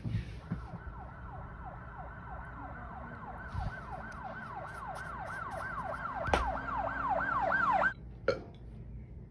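Electronic yelping siren: a falling tone that snaps back up about three times a second, growing louder, then cutting off suddenly about eight seconds in.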